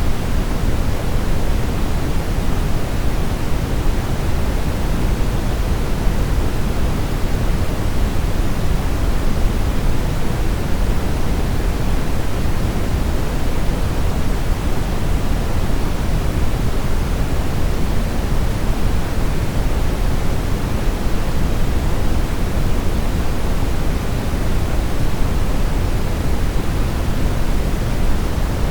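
Steady brown noise: an even, deep rushing hiss, strongest in the bass and dull at the top, unchanging throughout.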